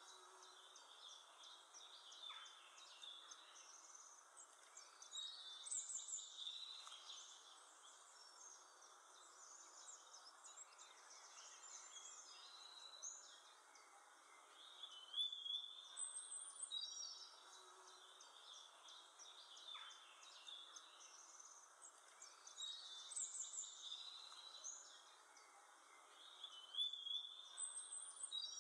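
Faint birdsong: many short, high chirps and twitters over a steady low hiss, with louder bursts of calling every few seconds.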